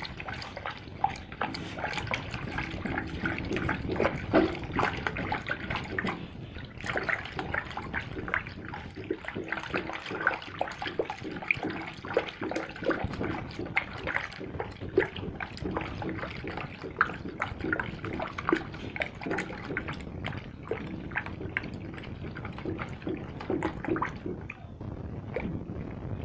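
Homemade car-wash soap mixture being stirred steadily by hand as it begins to thicken: continuous liquid churning with many small irregular clicks and splashes.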